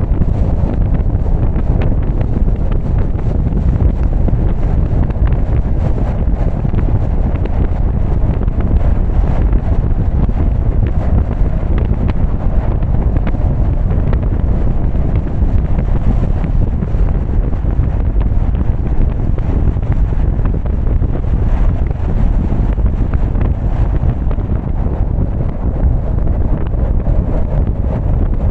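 Steady low rumble of a car driving, with wind buffeting the camera's microphone.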